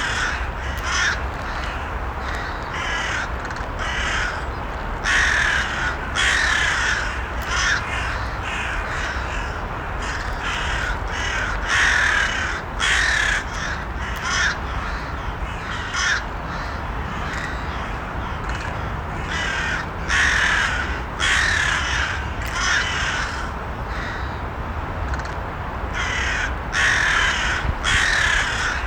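Crows cawing repeatedly, harsh calls coming about once a second with a few short pauses, over a steady low background hiss.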